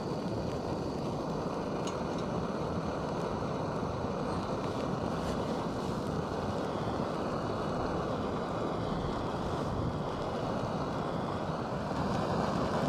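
Backpacking stove burner running steadily, heating a pot of water toward the boil.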